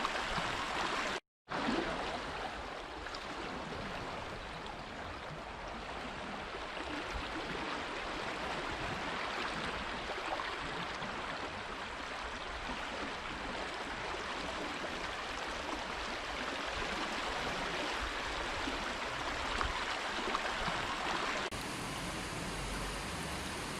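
Running water of a natural stream flowing steadily. It cuts out completely for a moment about a second in, and its sound changes slightly near the end.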